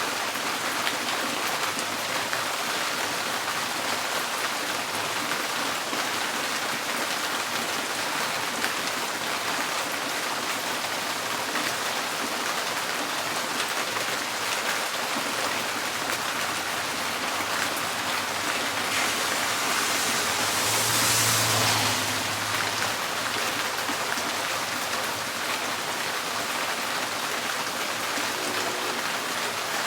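Steady rain pattering on a tin porch roof, a dense hiss full of fine drop ticks. About twenty seconds in, a louder whoosh with a low hum swells and fades over a few seconds.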